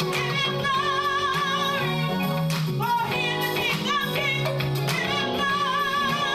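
Gospel worship music: a woman singing long, wavering held notes over sustained instrumental accompaniment.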